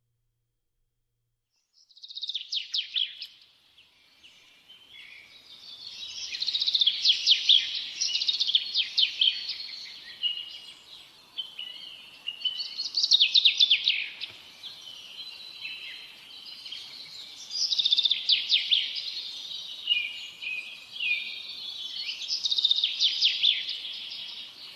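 Small birds chirping and trilling densely, starting about two seconds in and swelling loud again and again.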